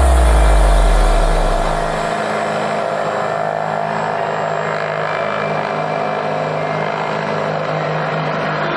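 Helicopter in flight, a steady drone of engine and rotor. A deep low tone fades out in the first two seconds.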